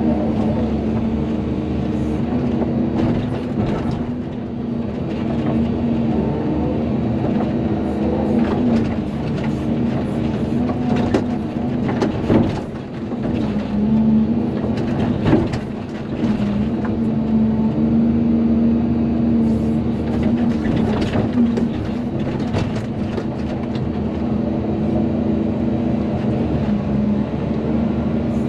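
Volvo EC220DL excavator's diesel engine running steadily at working revs, with scattered knocks and clanks as it works and two louder knocks about halfway through.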